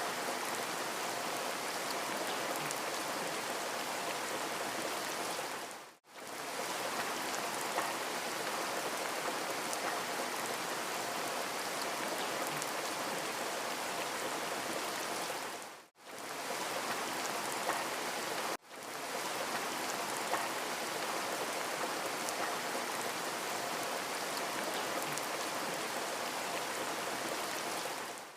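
Steady rain, a dense even hiss of falling drops. It dips briefly to silence and fades back in three times, like the joins of a looped recording.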